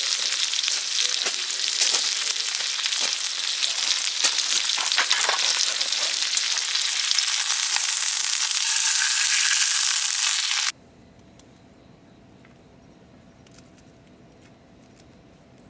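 Food frying: a loud, steady sizzling hiss full of crackles. It cuts off abruptly about eleven seconds in, leaving only a quiet background.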